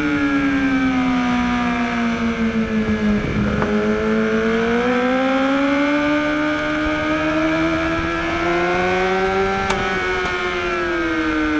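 2013 BMW HP4's inline-four engine running hard on track, heard from onboard: the revs drop for about three seconds, then climb steadily under throttle for about six seconds and drop again near the end, with one sharp click shortly before.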